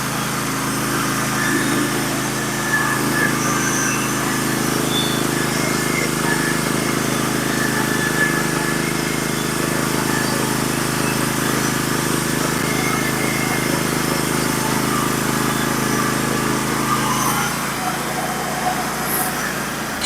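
Norwood HD36v2 portable bandsaw mill running steadily as its gas engine drives the band blade through a scarlet oak log. The engine note fades away near the end as the cut finishes.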